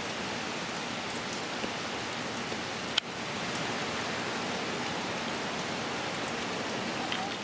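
Steady rain falling, an even hiss, with one sharp click about three seconds in.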